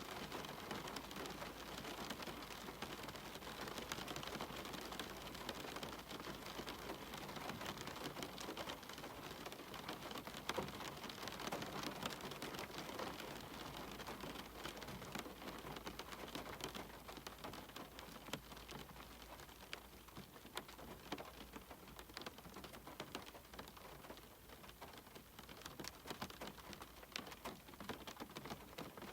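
Steady rain, with many individual drops ticking sharply close by over the even hiss.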